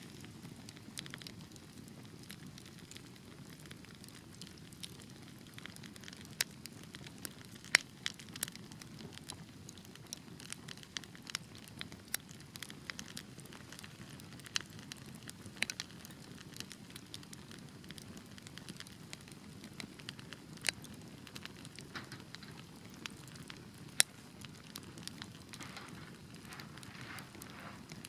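Wood fire burning in a fireplace: a steady low rush of flames with irregular sharp crackles and pops, a few louder snaps standing out.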